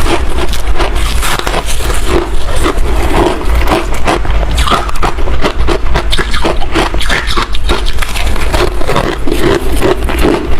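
Close-miked chewing and crunching of freezer frost: a dense, unbroken run of crisp crackles with a low rumble underneath.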